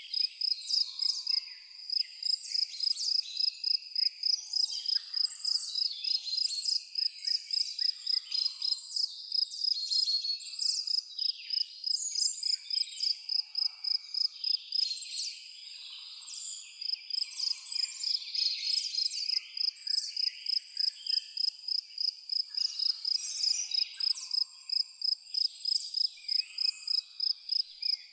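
An insect, most likely a cricket, chirps in a steady high-pitched pulse of about three to four chirps a second, stopping briefly about halfway through. Scattered bird calls are heard behind it.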